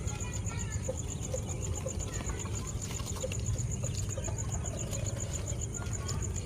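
Day-old quail chicks peeping in short scattered chirps, over a steady low hum and a fast, even, high-pitched pulsing.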